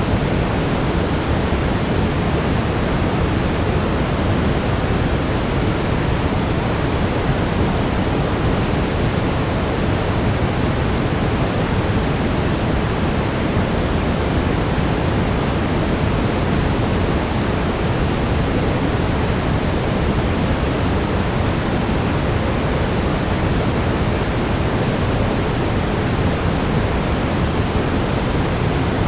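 Steady brown noise: a constant, even hiss-rumble, heaviest in the low end, with no change.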